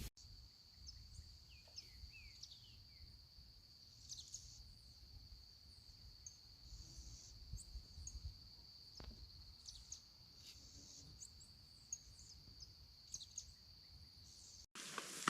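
Faint outdoor ambience: an insect keeps up one steady high-pitched trill, with scattered bird chirps and short whistled notes over it. It cuts off suddenly near the end.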